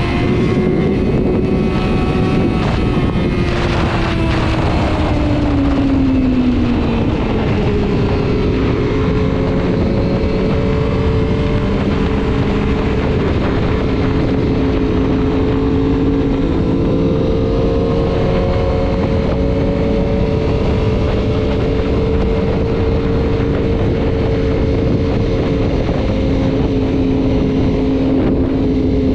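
Sport motorcycle engine running at highway speed under heavy wind rush. The engine note drops in pitch a few seconds in, then holds a steady cruise.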